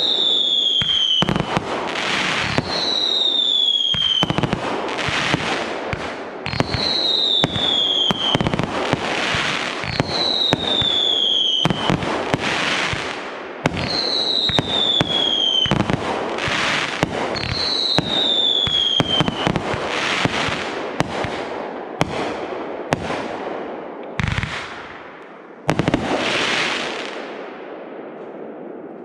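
Fireworks display: a rapid run of bangs and crackling, with a falling whistle about every two to four seconds over the first twenty seconds. A last big burst comes near the end and fades out.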